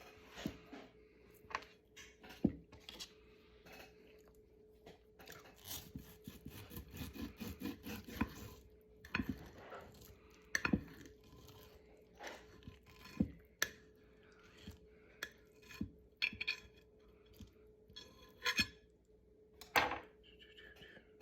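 Cutlery clinking and scraping on a plate during a meal: scattered sharp clinks, with a longer stretch of scraping around the middle, over a faint steady hum.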